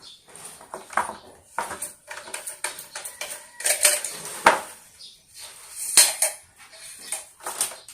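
Parts of an electric fan clicking and knocking together as they are handled and pushed at during assembly, in an irregular run of small knocks with two sharper ones about four and a half and six seconds in. The part is not going into place.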